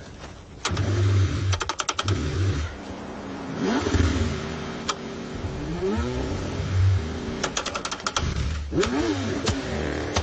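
Car engine cranking in freezing cold and struggling to start: the starter turns it over in spurts, with runs of rapid clicking and a low rumble between them.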